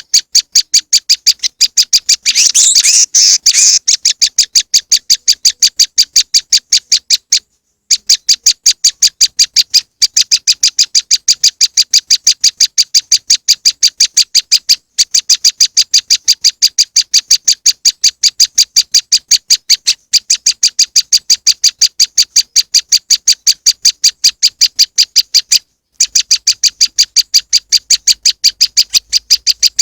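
Bird-lure recording of a prenjak lumut, a small Indonesian prinia-type warbler, calling in a fast even series of sharp high chip notes, about five a second. A denser, louder trill comes about two to four seconds in, and the run breaks off briefly a few times where the loop restarts.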